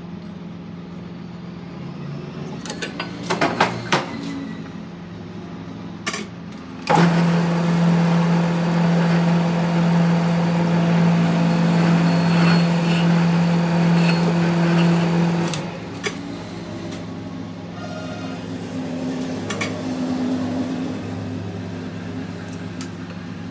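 Workshop machinery running with a steady hum and a few metal knocks, then a loud spell of about eight seconds of machining noise in the middle, which drops back to the hum.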